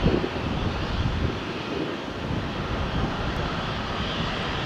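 Jet aircraft engine noise, a continuous low rumble with a rushing hiss.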